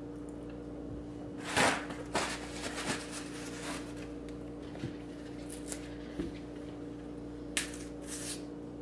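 Scattered short rustles and squishes of bananas being peeled and eaten, the loudest about one and a half seconds in and another cluster near the end, over a steady low hum.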